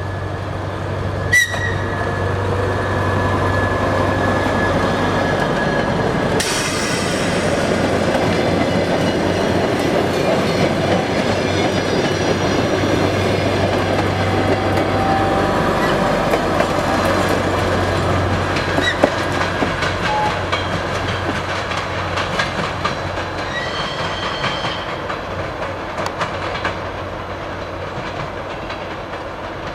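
ChME3 diesel shunting locomotive running with rail cars rolling past: a steady engine hum, wheels clacking over rail joints and brief wheel squeals, loudest in the middle and slowly fading toward the end.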